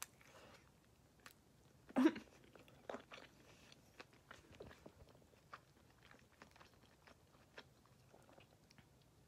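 A person chewing a mouthful of barbecue chicken wing close to the microphone: irregular small mouth clicks and crunches, with the loudest chomp about two seconds in.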